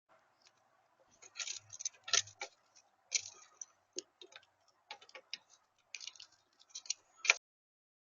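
Irregular run of sharp clicks and taps, several a second, over a faint steady hum, ending with the loudest click.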